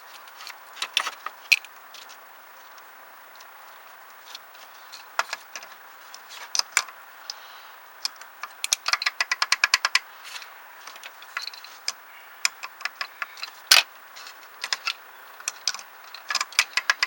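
Small metal parts and tools clicking and clinking as a replacement A/C compressor clutch coil is handled and fitted onto the compressor. A quick even run of small clicks comes about halfway through, and a single sharper knock later on.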